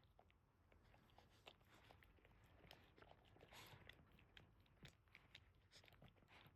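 Faint, irregular wet clicking and smacking mouth sounds of Boston terriers in a whelping box: the newborn litter and their mother.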